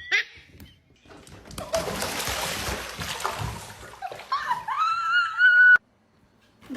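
Water splashing for about two seconds, then a long high-pitched wavering cry that cuts off suddenly.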